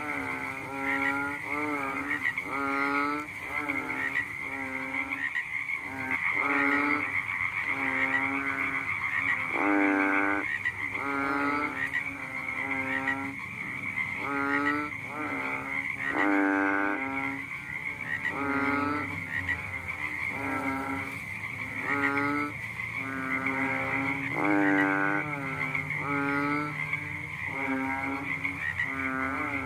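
A frog croaking over and over, about once a second, each call a short pitched note. Under the calls runs a steady high-pitched hum.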